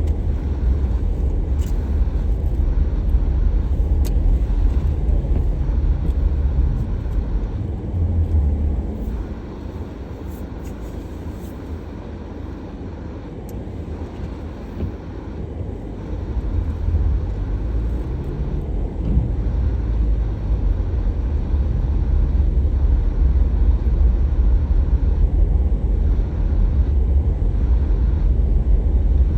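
Car driving: a steady low rumble of road and engine noise. It eases off for several seconds around the middle, then builds again.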